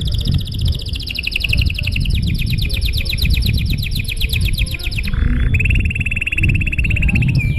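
Domestic canary singing a long song of rapid trills: a fast run of repeated high notes for about five seconds, a short harsh note, then a lower, steadier rolling trill.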